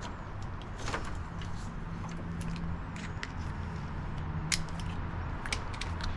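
Scattered sharp clicks and light knocks of a Torx driver and plastic engine-bay parts being handled as the air intake is unbolted, over a steady low hum.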